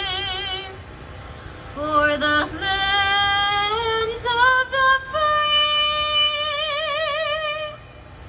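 Music with a woman singing long, held notes with a wide vibrato, moving from note to note in slow steps.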